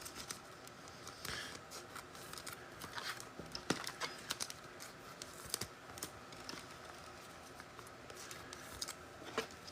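Faint rustling and scattered light clicks of trading cards and foil pack wrappers being handled.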